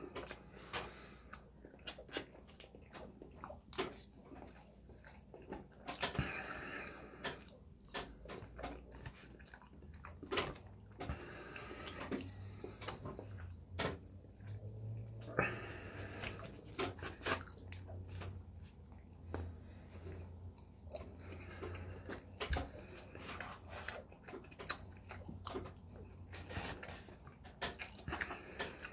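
Close-up chewing and mouth sounds of someone eating, with frequent short clicks and taps of a plastic fork against foam takeout containers.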